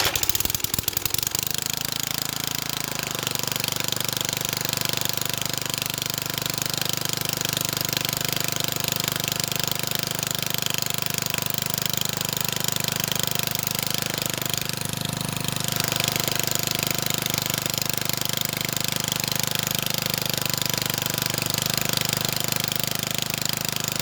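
A 3.5 HP Briggs and Stratton single-cylinder engine on an old rotavator starts on choke and runs. It is rough and uneven for the first two or three seconds, then settles into a steady run, showing the freshly cleaned carburettor now feeding it properly.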